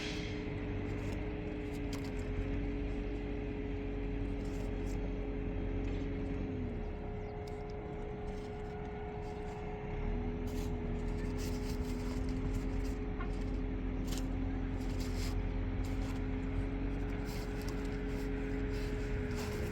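Tractor engine running, its note rising with strong low rumble as it works for several seconds, falling back about seven seconds in, then rising again about ten seconds in. A steady whine runs underneath throughout.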